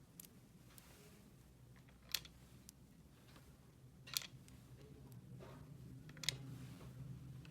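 Toy pieces being handled: faint rustling with three sharp clicks about two seconds apart, over a low steady hum.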